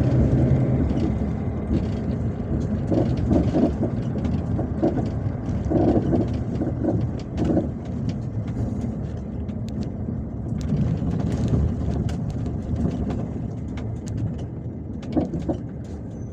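MAZ-257 bus on the move, heard from inside the cabin: a low engine and road rumble with scattered rattles and knocks from the body. The engine's steady tone drops away about a second in, and the rumble gets gradually quieter.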